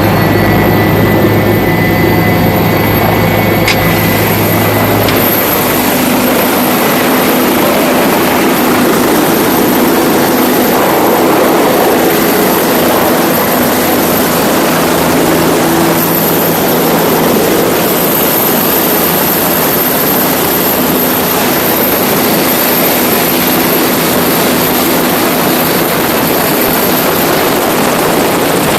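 Helicopter in flight: loud, steady engine and rotor noise with a thin high whine running through it.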